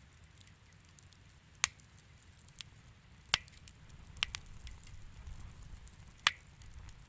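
Wood fire in a fireplace crackling, with a low steady rumble of flame and scattered sharp pops, four of them loud.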